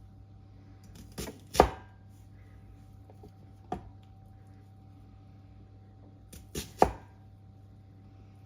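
Kitchen knife chopping onion on a chopping board, slowly and unevenly: a pair of knocks about a second and a half in, a single one a little later, and another pair near the end.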